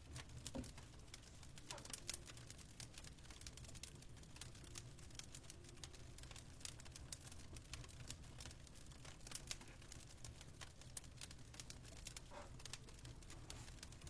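Fireplace crackling: quiet, irregular pops and snaps over a low steady rumble.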